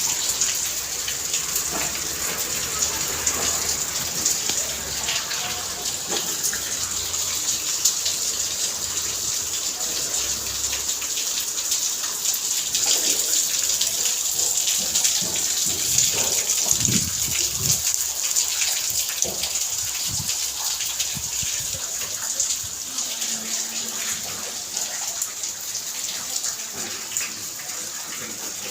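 Steady rain: a continuous hiss with many small drop impacts.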